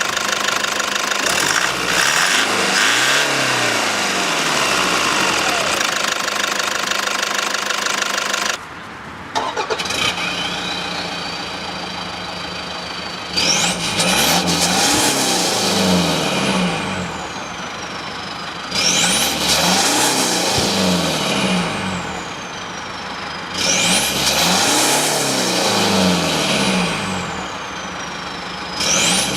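Toyota Land Cruiser Prado's diesel engine being revved repeatedly, about once every five seconds. Each rev rises quickly and dies away slowly, with a high whistle falling along with it.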